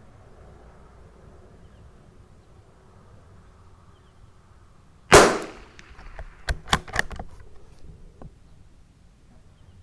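A single shot from a Tikka T1x bolt-action .22 LR rifle about five seconds in, then a quick run of sharp metallic clicks as the bolt is worked to eject the case and chamber the next round.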